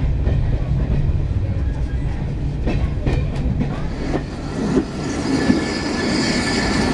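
Passenger train running along the track: a steady low rumble with the clickety-clack of wheels over rail joints, and a thin wheel squeal setting in near the end.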